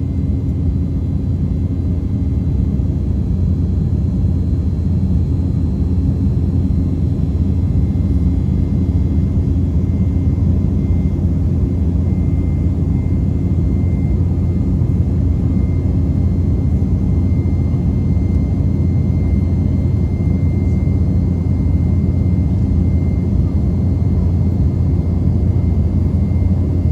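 Steady low roar of jet engines and airflow heard inside the cabin of an Embraer E195 jet airliner in flight, with a faint high steady whine.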